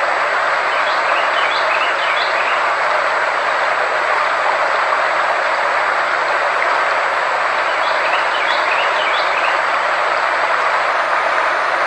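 Sound-therapy track: a steady hiss-like noise with faint steady tones beneath it. Two brief clusters of faint high chirps come through, about a second in and again near eight seconds.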